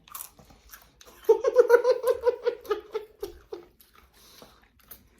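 A person giggling: a quick run of high-pitched laugh pulses lasting about two seconds, starting about a second in, with small clicks of eating and food handling around it.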